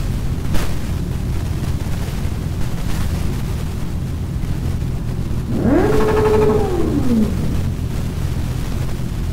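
Honda CB650R inline-four motorcycle engines idling with a steady low rumble. About six seconds in, one engine is revved up, held briefly and let back down.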